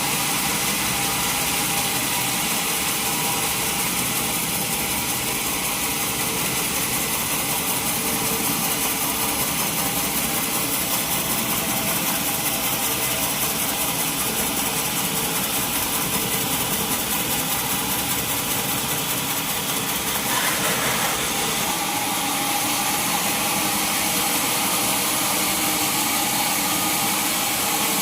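Sawmill machinery running steadily, a continuous mechanical noise with a strong high hiss, with a brief surge about twenty seconds in.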